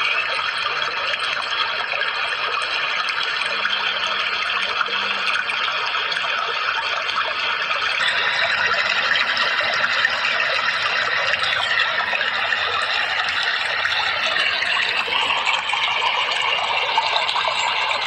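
Running water flowing with a steady, even rush.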